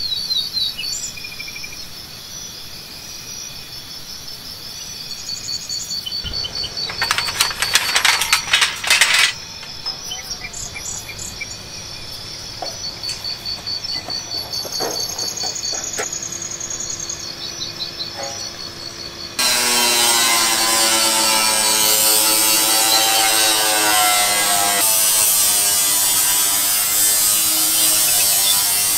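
Insects chirping steadily in a fast, high, pulsing rhythm, with a loud crackling rustle for about two seconds early on. About two-thirds of the way in, a much louder steady hiss with an underlying pitched tone cuts in abruptly and continues.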